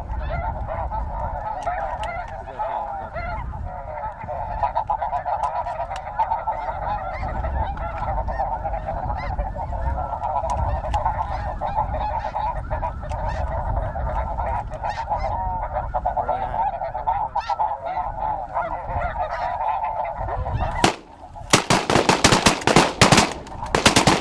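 A huge flock of snow geese calling overhead, a dense, unbroken chatter of many high honking voices. Near the end it gives way to a rapid run of loud sharp bangs: several shotguns firing together on the birds.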